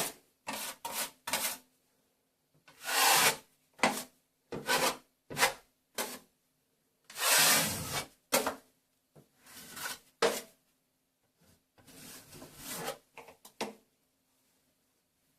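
Plastering trowel scraping over a ceiling plaster join in irregular strokes: a quick run of short scrapes, then a few longer sweeps of about a second each, with pauses between.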